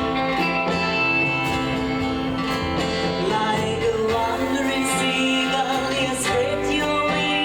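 Live rockabilly band playing, with guitars prominent over a steady beat.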